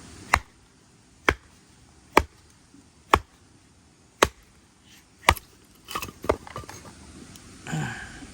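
Wood being chopped: six sharp strikes about a second apart, then a few lighter knocks.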